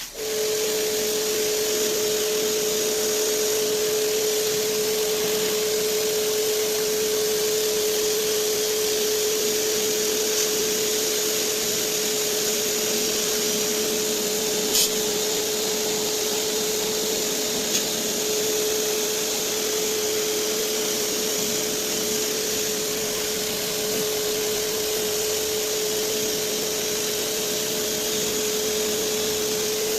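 An electric motor running steadily: a constant whine over a rushing, hissing noise, with two short clicks, one about halfway through and another a few seconds later.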